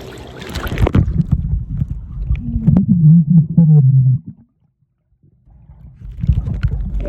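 Muffled underwater sound in a swimming pool as the microphone goes under about a second in: low rumbling and gurgling with muffled hums, dropping out to near silence for about a second past the middle.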